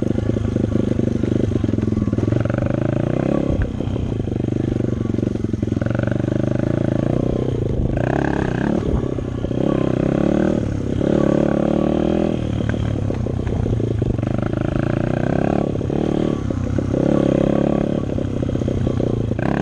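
Dirt bike engine running with the throttle opened and closed every second or two, its pitch rising and falling over and over.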